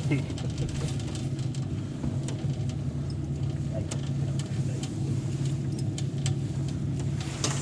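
An engine or motor running steadily at a low hum, with faint scattered clicks.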